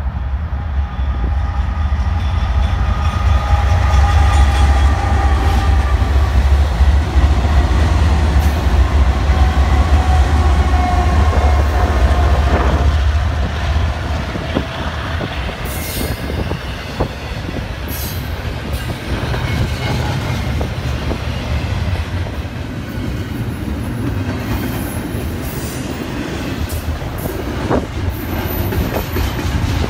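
Diesel locomotives of a double-stack intermodal freight train pass close by with a deep engine rumble and a whine that drops slightly in pitch, loudest in the first half. Then the container well cars roll past with repeated wheel clicks over the rail joints and a few brief, high wheel squeals.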